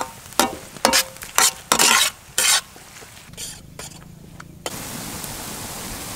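Chopped onion, garlic, green chillies and curry leaves frying in sesame oil in a large kadai, with a ladle stirring and scraping the pan in about six loud strokes over the first two and a half seconds. From about two-thirds in there is a steady, even sizzle.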